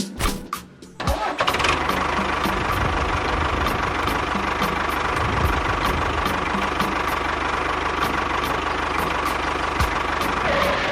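A few clicks, then about a second in a motor starts and runs steadily, with a constant whine over a dense mechanical rattle, stopping abruptly near the end.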